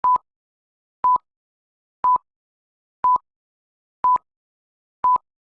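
Six short, identical electronic beeps at one steady pitch, one each second, with dead silence between them: a countdown-style beep sequence.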